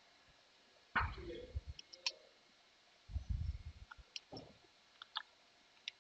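Scattered faint clicks and a few short low thumps from a computer keyboard and mouse being used.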